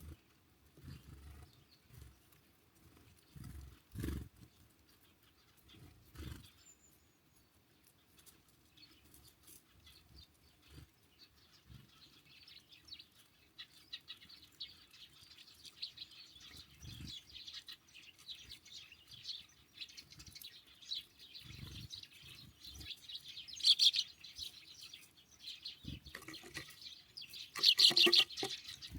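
Small songbirds at a winter feeder chirping and calling, a rapid twittering that builds from about nine seconds in, with two loud bursts near the end. A few low thumps come in the first several seconds.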